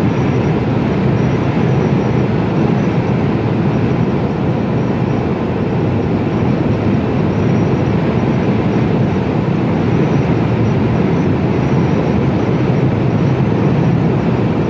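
Steady engine and road noise heard inside the cab of a Mercedes-Benz Actros lorry cruising along the road.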